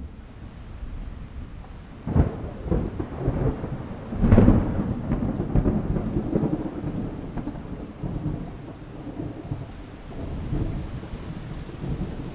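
Thunderstorm: steady rain with a sharp clap of thunder about two seconds in and a louder rumble of thunder about four seconds in, rolling on afterward.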